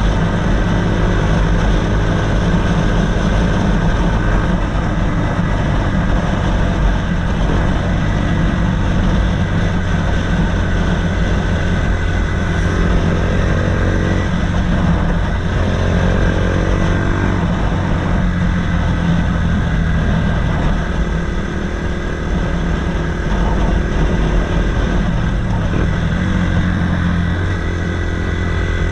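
Honda CBF 125's single-cylinder four-stroke engine running through an aftermarket DanMoto GP exhaust, its pitch rising and falling a few times as the revs change.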